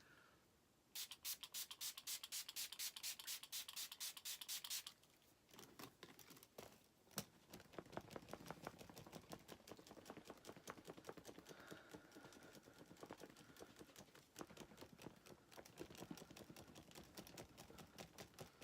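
Pump bottle of Makeup Forever Mist and Fix setting spray spritzed many times in quick, even succession for about four seconds, then faint scattered clicks and rubbing of handling.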